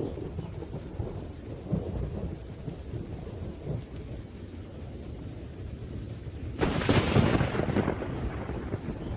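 Thunderstorm: low, continuous rolling thunder over rain, broken about seven seconds in by a sudden loud, sharp thunderclap that fades back into the rumble.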